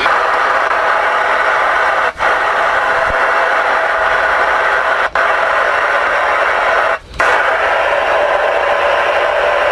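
Galaxy DX-979 CB radio receiving on the air: steady loud static hiss from its speaker, broken by three brief dropouts.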